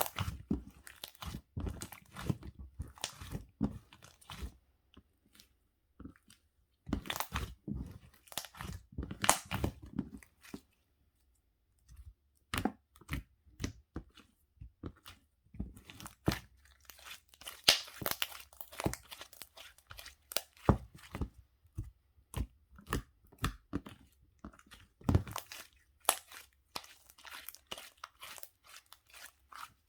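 Close-up crunching and crinkling noises in irregular clusters of sharp crackles, with a few pauses of a second or two.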